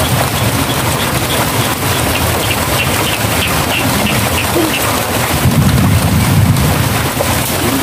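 Steady hiss of light rain, with a short high chirp repeating about twice a second through the middle.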